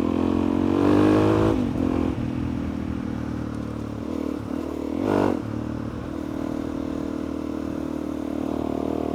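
Suzuki DR-Z400E's single-cylinder four-stroke engine running at low speed while riding. The pitch rises in the first second or so and then falls back, with a short throttle blip about five seconds in.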